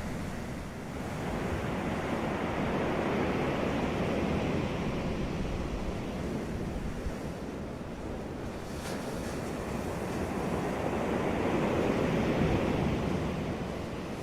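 Sea waves breaking on a beach: a steady wash of surf that swells twice as two waves come in, the second a little louder.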